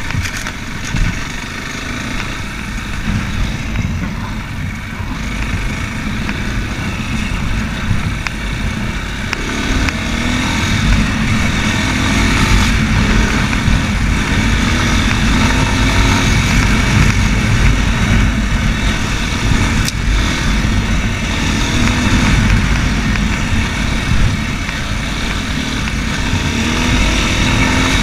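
Racer Panther 300 enduro motorcycle engine running while under way, growing louder over the first half and then holding steady, with a heavy low rumble underneath.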